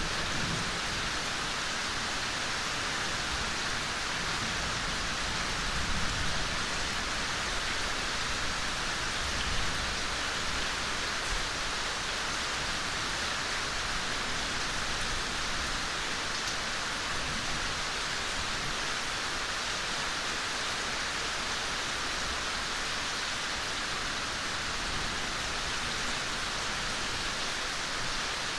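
Steady gentle rain falling, an even hiss, with a couple of slightly louder moments about six and ten seconds in.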